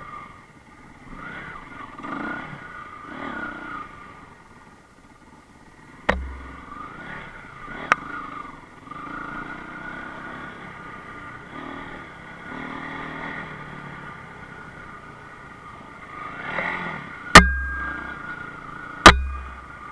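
Enduro motorcycle engine running off-road, its revs rising and falling unevenly. Sharp knocks cut through it four times, the two loudest near the end.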